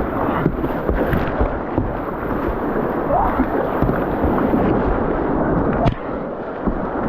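Rushing whitewater splashing around a kayak running a rapid, with a sharp knock about six seconds in.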